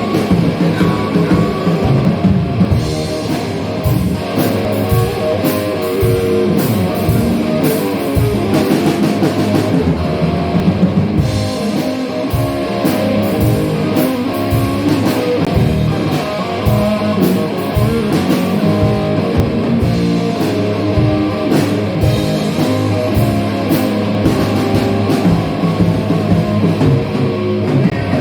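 Blues rock punk song played loud on electric guitar and drum kit, running without a break.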